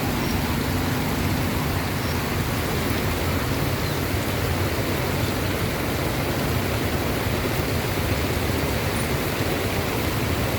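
Heavy monsoon rain falling as an unbroken, steady rush.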